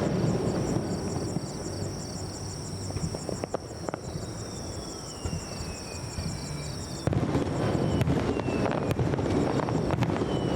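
Aerial fireworks bursting, with a steady rumble and many sharp crackles, and a couple of falling whistles. Crickets chirp steadily until about seven seconds in, when the rumble and crackling grow louder.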